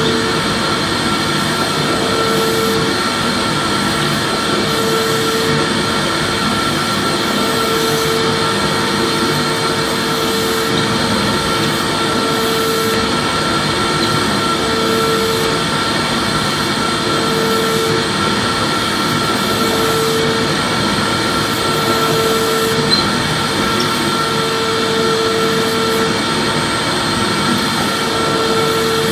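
Vacuum cleaner running steadily, its motor giving a continuous airy rush with a high whine, and a lower hum that comes and goes every two to three seconds.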